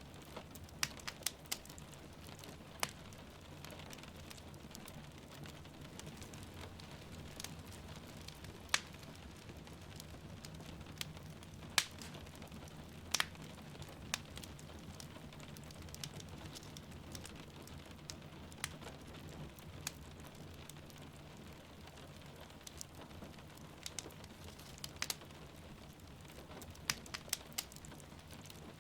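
Wood fire crackling in a fireplace, with a dozen or so sharp, irregular pops, over the steady hiss and low rumble of rain.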